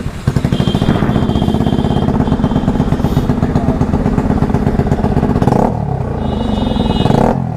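Bajaj Pulsar NS200's single-cylinder engine running through a full-system Akrapovic exhaust with the dB killer removed, very loud, with a fast, even exhaust pulse. It dips briefly near the end, then picks up again.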